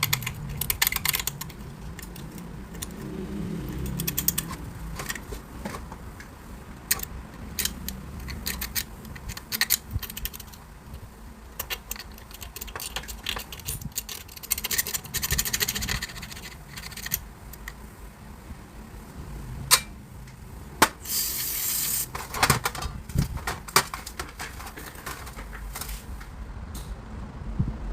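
Hand tools working on metal: scattered clinks, clicks and knocks, with a scrape about 22 seconds in.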